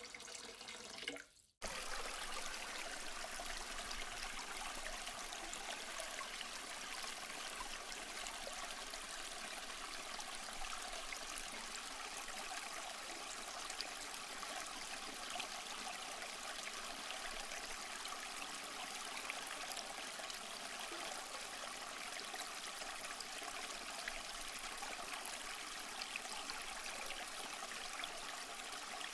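Steady rain falling on leaves, an even patter of drops with no let-up. The sound briefly cuts out about a second and a half in, then returns at the same level.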